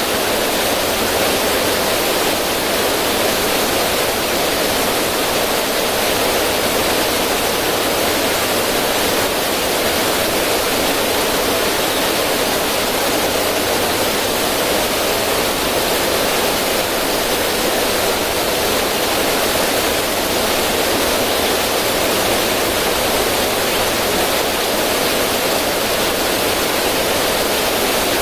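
River water rushing steadily over rocks in a small waterfall, a constant even splashing with no breaks.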